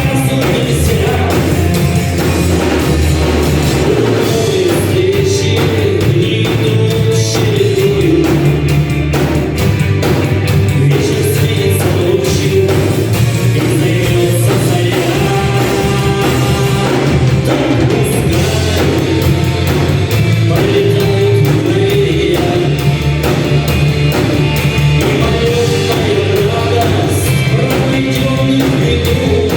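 Live rock band playing a song at full volume: drums, bass and guitars, with a melodic line carried over the top.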